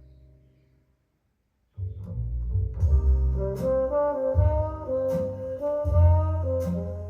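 A held low note fades out, then after a brief silence a jazz band starts up: a walking double bass under a horn melody, saxophone or trombone.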